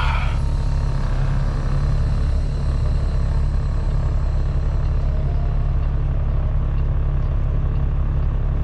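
Kenworth T660 semi truck's diesel engine running at low speed while the truck backs up slowly, a steady low rumble heard from inside the cab.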